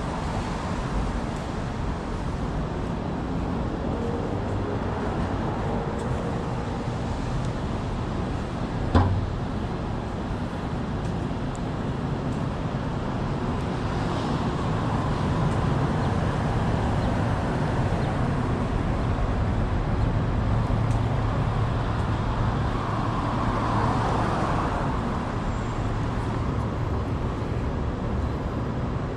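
City street traffic: a steady wash of road noise with vehicles passing by, swelling louder in the second half. A single sharp click about nine seconds in.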